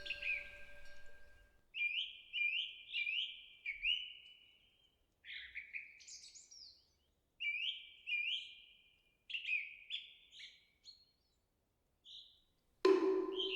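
Small birds chirping in short repeated rising phrases with gaps between them. A temple wind bell's ring fades out at the start, and the bell rings again loudly just before the end.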